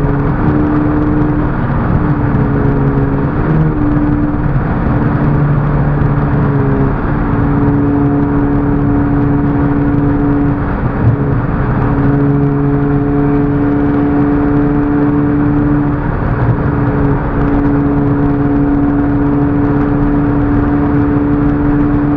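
Car engine droning at highway cruising speed, heard from inside the cabin over steady road and tyre noise, with the engine note shifting up and down a few times in the first several seconds.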